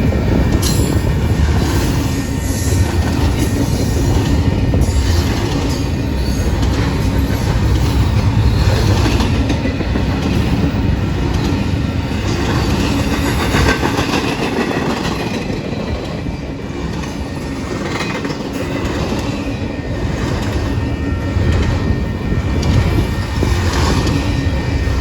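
Freight train cars rolling past, a steady loud rumble with wheels clicking over the rail joints.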